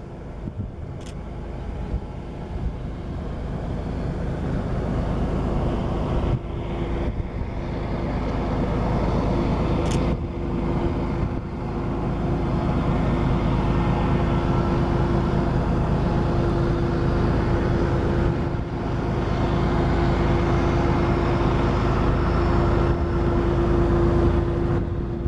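Diesel locomotives of a heavy freight train working upgrade. Their engines make a low rumble that grows louder over the first half, with a steady whine held through the second half.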